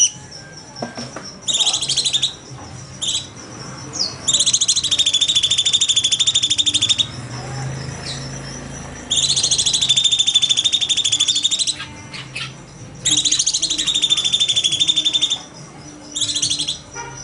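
A cucak cungkok songbird singing in its rapid-fire 'nembak' style: long, loud runs of very fast high trilling notes lasting two to three seconds each, with short single calls between the runs.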